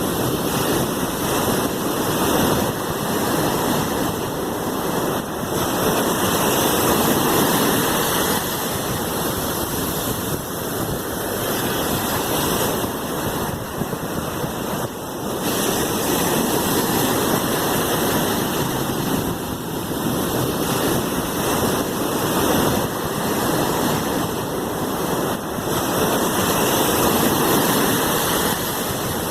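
Sea waves washing in, a continuous rush of water that slowly swells and eases every several seconds.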